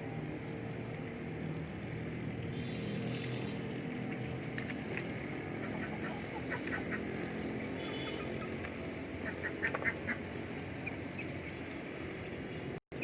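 Domestic ducks quacking and calling, with a steady low background of calls throughout and a cluster of short, sharper sounds about nine to ten seconds in. The sound cuts out for a moment just before the end.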